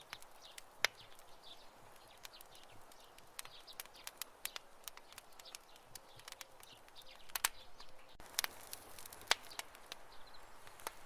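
Campfire burning, the wood crackling with irregular sharp pops and snaps over a steady soft hiss. The loudest snaps come about a second in and around nine seconds.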